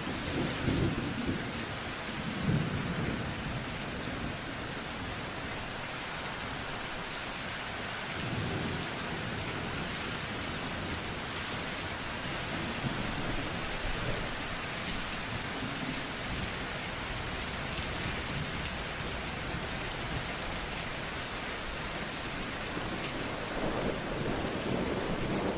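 Steady rain with low rolls of thunder, the strongest near the start and again near the end.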